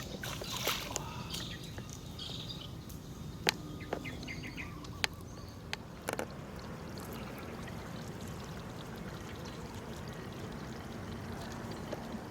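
Shallow floodwater trickling and sloshing. There are several sharp clicks and splashes in the first half, then an even wash of running water.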